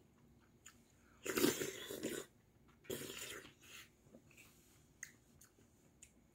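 A man eating a mouthful of cutlassfish stew with potato and rice, chewing noisily in two louder bursts about a second in and near the middle. A few light clicks come from the wooden spoon and chopsticks against the ceramic bowl.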